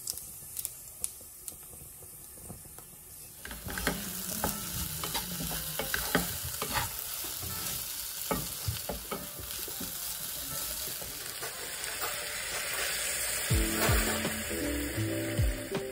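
Food frying in oil in a wok: first a soft sizzle of seeds in hot oil, then, about three seconds in, a louder sizzle as red lentils, tomato and onion are stirred and scraped with a wooden spatula. Near the end, water poured into the hot pan hisses as background music comes in.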